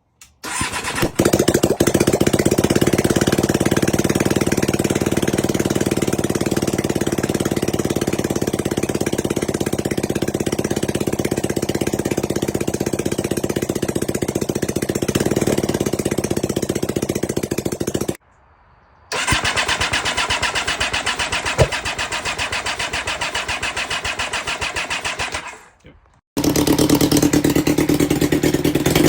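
1993 Suzuki GSX-R750 inline-four motorcycle engine, swapped into a Yamaha Raptor 660 quad, starting and then running steadily. The sound drops out for about a second twice, once past the middle and again near the end, then comes back.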